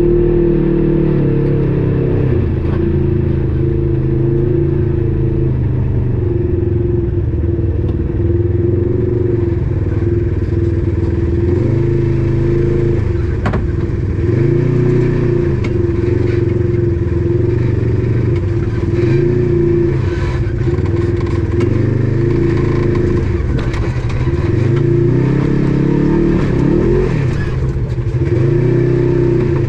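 Polaris RZR side-by-side engine running under changing throttle while driving a trail, its pitch rising and falling repeatedly as it speeds up and slows, with scattered rattles and ticks from the machine over rough ground.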